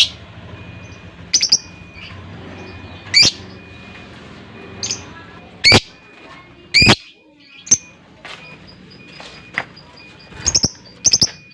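Lovebird giving short, shrill calls, one every second or so, with some calls doubled in quick succession.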